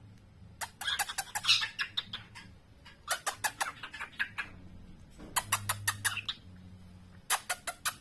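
Cockatiel practicing its song: four bursts of rapid, sharp chirping notes with short pauses between them.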